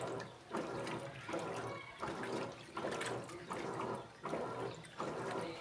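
Electrolux Essential Care 14 kg washing machine churning its load in water, the sloshing swelling and easing in a steady rhythm of about one surge every three-quarters of a second.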